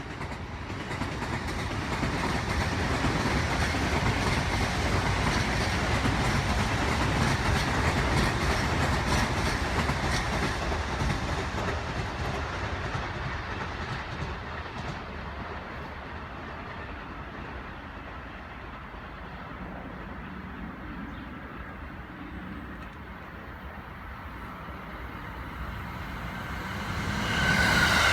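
An electric commuter train passing along the track, its wheels clacking over the rail joints. It swells over the first few seconds and then fades away slowly. Near the end the sound of another train begins to rise.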